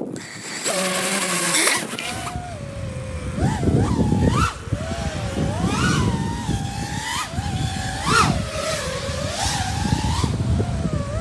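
Motorbike engine revving up and down over and over, its pitch climbing sharply and dropping back several times. A brief loud hissing burst comes in the first two seconds.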